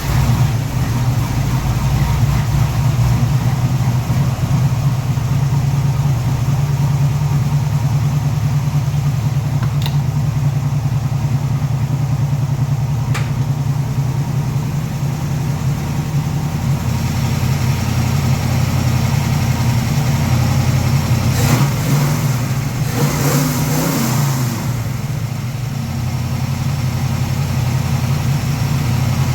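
A 1971 Mustang's 351 Windsor V8, a 1994 roller-cam engine, running steadily. Its sound shifts briefly about three quarters of the way through.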